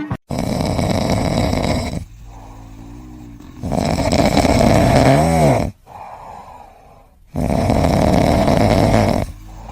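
A pet snoring loudly: three long snores about three and a half seconds apart, with quieter breaths between them.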